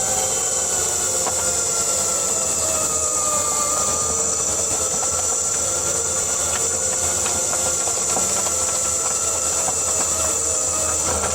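Ford Kuga PHEV's HF45 e-CVT transmission heard up close from on top of the gearbox: a steady high whine with several gear-whine tones that drift slowly down in pitch, and faint scattered ticks. It is a rotational noise that appeared after the flywheel was replaced, which the owner thinks could come from motor-generator 1.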